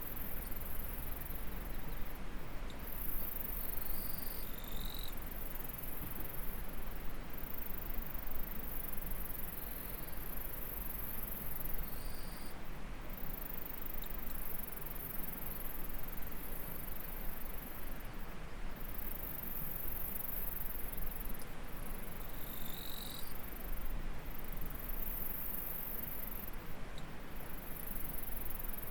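Insects calling in a very high, pulsing drone that breaks off every second or two, over a steady rush of flowing stream water. A few short, higher chirps stand out, about four seconds in, near the middle and about three-quarters through.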